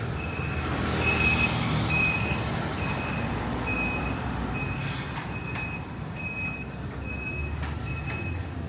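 A vehicle's reversing alarm beeping, one high-pitched tone repeating evenly about three times every two seconds, over the low rumble of an engine.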